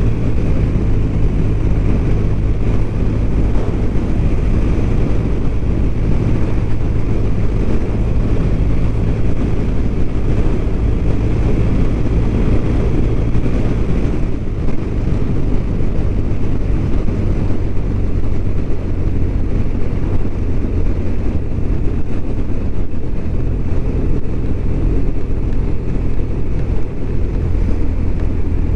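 BMW R1200RT's flat-twin engine running steadily at cruising speed, with wind and road noise.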